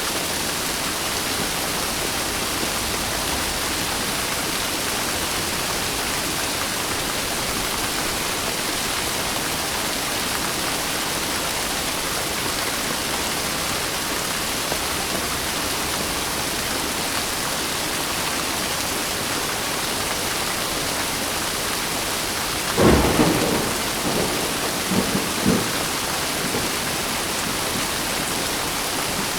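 Steady rain falling throughout. About three quarters of the way through comes a sudden crack of thunder, followed a couple of seconds later by two short, fainter claps.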